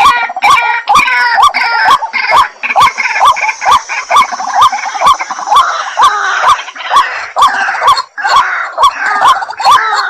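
White-breasted waterhen calling: a loud, unbroken run of hoarse, repeated notes, about three a second, with other calls layered over them.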